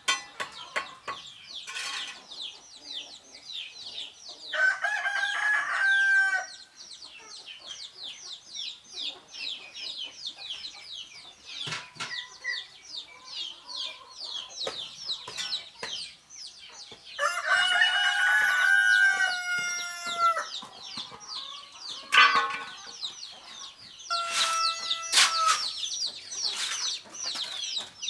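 A rooster crowing three times: about five seconds in, midway through, and near the end. Constant high-pitched chirping runs underneath, with a couple of sharp knocks.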